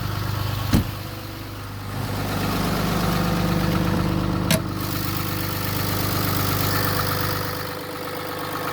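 6.7-litre Cummins turbo diesel idling steadily, getting louder about two seconds in. Two sharp clicks, one under a second in and one about four and a half seconds in.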